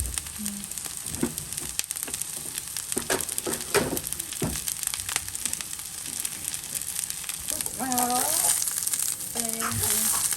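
Food sizzling as it fries in hot oil in a pan, with several knocks and scrapes of a utensil stirring it in the first half.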